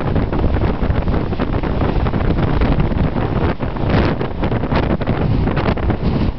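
Blizzard wind buffeting the microphone: a loud, continuous low rumble with repeated gusts.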